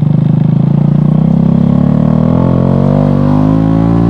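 Motorcycle engine accelerating under way, pulsing at first, then its pitch rising steadily over about three seconds as it picks up revs.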